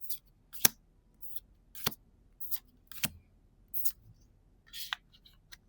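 One Piece trading cards handled and flipped through by hand: a string of about ten short, sharp card snaps and slides at irregular intervals.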